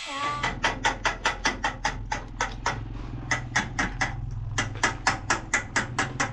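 Rapid, regular knocking, about four to five sharp knocks a second with two brief pauses, over a steady low hum.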